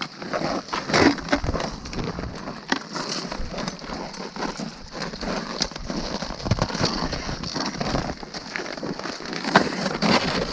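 Footsteps crunching on packed snow during a winter climb, with irregular crackling and crunching sounds.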